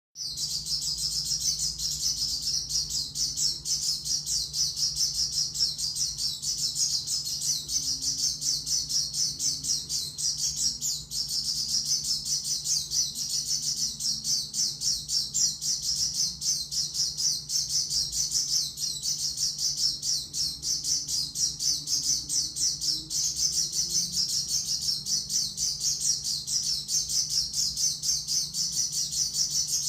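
Pleci dakun (a white-eye) singing a long, unbroken run of very rapid high twittering chirps, with a steady faint low hum underneath.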